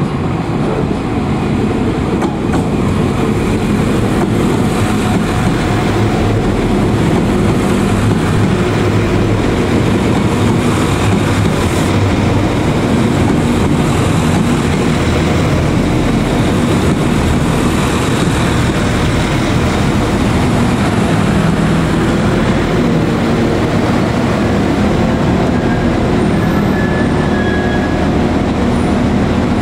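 Northern Ireland Railways diesel multiple unit passing close by: a steady rumble of its engines and wheels on the rails. It grows louder in the first second, then holds.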